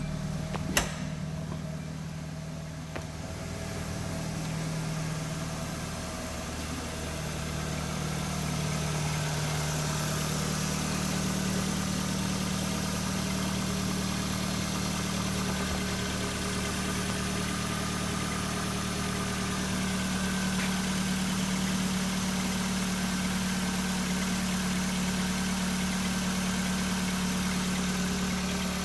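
2011 Kia Rio's 1.6-litre four-cylinder engine idling steadily. A single sharp click comes about a second in.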